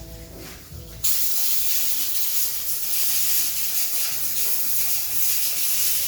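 A loud, steady hiss, like pressurised air or spray, that starts suddenly about a second in.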